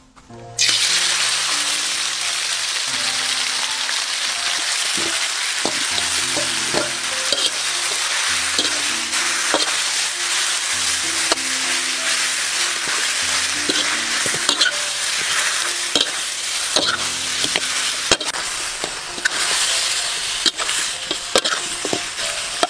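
Marinated snake pieces frying in hot oil in a wok. The sizzle starts suddenly about half a second in, as they go into the oil, and carries on steadily while a metal spatula stirs them, clicking and scraping against the pan.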